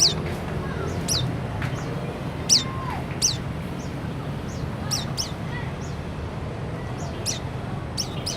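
White-eye (pleci) calling: short, high chirps that slide down in pitch, given irregularly about once a second, over a steady low rumble.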